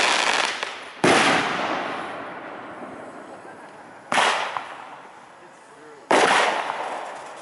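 Aerial firework shells bursting: sharp booms about a second, four seconds and six seconds in, each followed by a long rumbling echo that slowly dies away.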